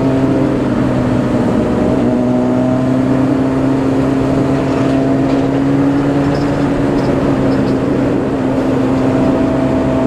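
Motorcycle engine running steadily at cruising speed, with rushing wind noise; its pitch rises slightly a couple of seconds in and eases back later.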